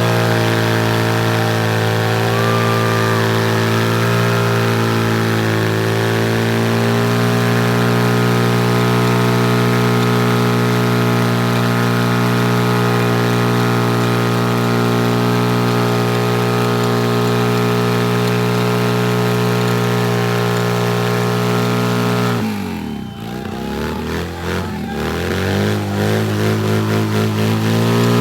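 Motorcycle engine held at high, steady revs through a burnout for over twenty seconds. The throttle then closes and the revs drop, followed by quick blips up and down and a rise again near the end.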